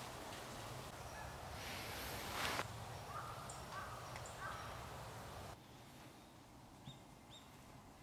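A bird giving several short calls over faint outdoor background noise, with a brief rush of noise about two seconds in.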